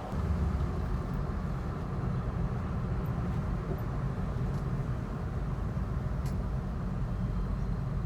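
1959 Imperial's 413 V8 engine and road noise heard from inside the cabin as a steady low rumble while the car drives, running smoothly with normal temperature and oil pressure.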